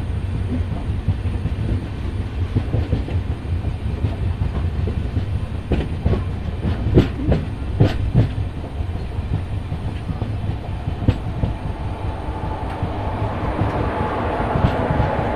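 Train rolling along the rails: a steady low rumble with wheel clacks over the rail joints, strongest about six to eight seconds in. Over the last few seconds a faint steady whine rises above the rumble.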